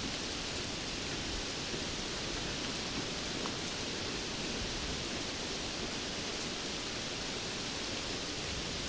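Steady rainfall, an even hiss with occasional faint drop ticks.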